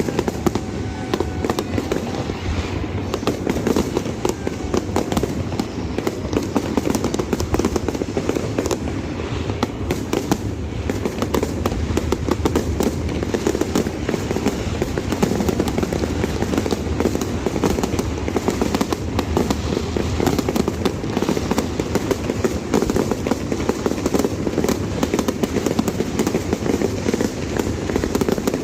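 Fireworks display: a continuous barrage of closely packed bangs and crackles over a steady low rumble.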